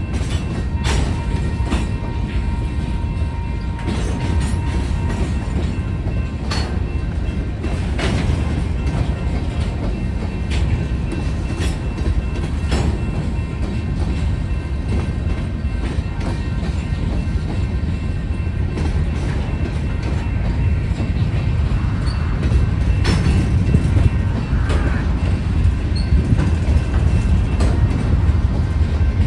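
Slow-moving freight train rolling through the grade crossing, with a steady low rumble and scattered clacks of wheels over rail joints. A crossing bell rings along with it.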